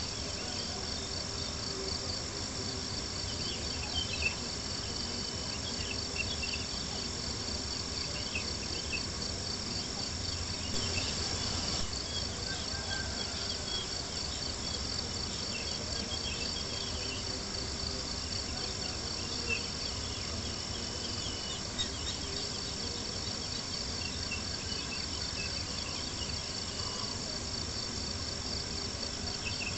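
Crickets chirping in a steady, continuous high trill, over a low background hiss, with a few sharp pops from a crackling campfire.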